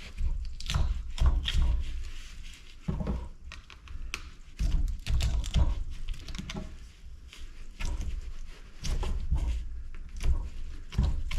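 Irregular knocks, clunks and scraping as parts of a large light fixture are handled and pried apart by hand, with low rumbling handling noise between the strikes.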